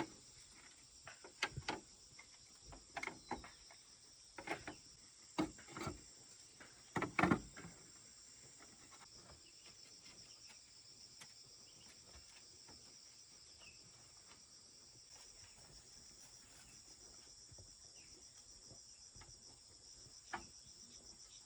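A steady, high insect chorus of crickets. Over it, a run of irregular knocks and clatters comes in the first eight seconds, loudest about seven seconds in, with one more knock near the end.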